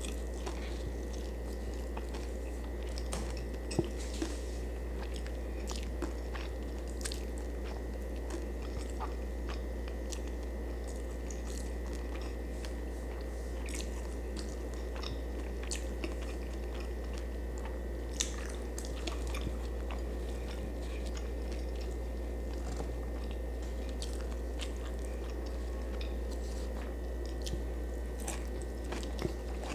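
Close-up chewing with many small crisp crunches and clicks scattered throughout: a person eating fried fish and vegetables with her hands. A steady low hum runs underneath.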